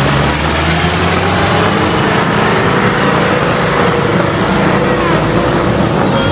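Heavy truck's diesel engine running hard with a steady low drone, along with loud road and traffic noise.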